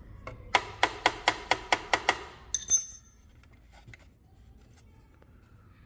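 A quick run of about eight sharp, ringing clicks, roughly five a second, then one bright clink; after that only a faint hum.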